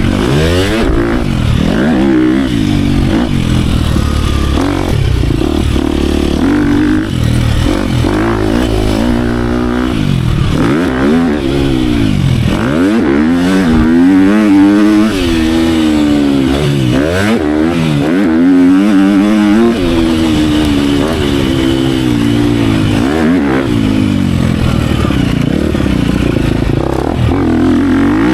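GasGas 250F motocross bike's single-cylinder four-stroke engine revving hard under load, pitch climbing and dropping back over and over through gear changes and throttle blips, with heavy wind noise on the microphone.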